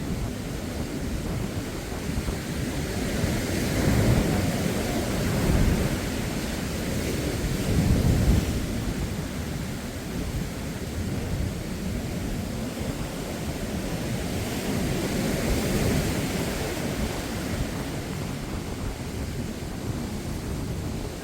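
Surf breaking on a sandy beach, with wind blowing on the microphone; the rushing noise swells several times as waves come in.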